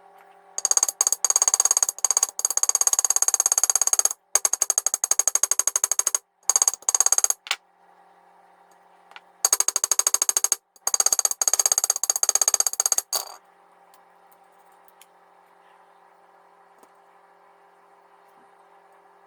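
A small handheld power tool runs in bursts of very rapid knocking, fixing the wheels back onto a diecast model's axles. There are five bursts of one to four seconds each, with a pause of about two seconds before the last two, and a faint steady hum in the gaps.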